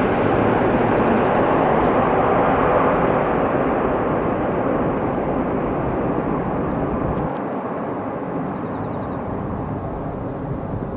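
Jet engines of an Airbus A330-300 airliner on landing: a loud, steady rushing roar that slowly fades.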